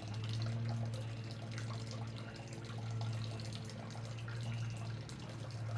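Steady low hum from an unseen machine, with faint short bird chirps and a few light taps over it.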